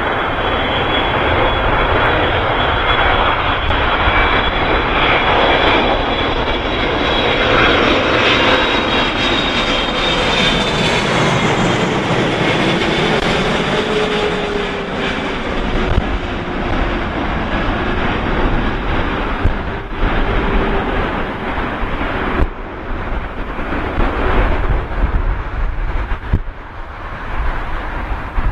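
Boeing 777F's twin GE90 turbofans whining as the jet comes in to land and passes close by. The engine tones drop in pitch about halfway through, and a low rumble takes over for the rest.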